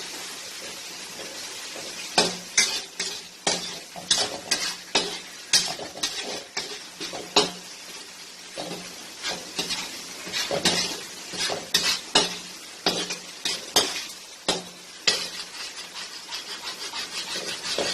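Ginger-garlic paste frying in a pan with onion and tomato, a steady sizzle broken by the repeated clack and scrape of a metal spoon stirring against the pan. It is being cooked until its raw smell goes, and kept moving so it does not stick to the bottom.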